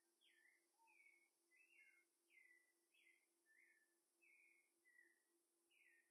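Near silence with a bird faintly singing: a steady run of short chirps, about two a second, over a low steady hum.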